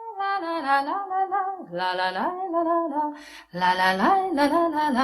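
A woman singing a melody in held and stepping notes, with a short break in the middle.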